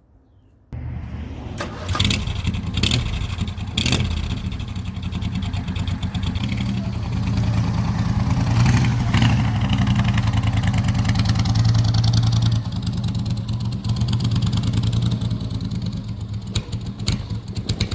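Briggs & Stratton V-twin engine of a hot-rodded riding mower starting abruptly about a second in and running loud, with sharp cracks from the exhaust over the next few seconds as it is revved. It then runs steadily at speed, easing back near the end.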